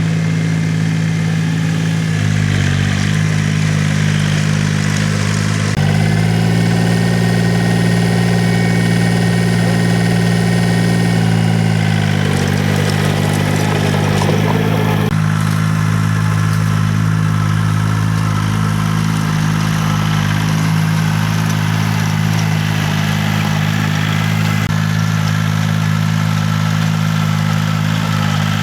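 Engine of a farm tilling machine running continuously, its pitch dipping and rising a few times, with a spell of extra rattling about halfway through.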